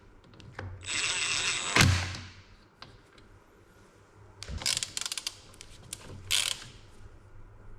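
Bolts being run in on the excavator's hydraulic tank: about a second of a small power tool running near the start, then a quick run of ratchet clicks about halfway through and one more short burst later.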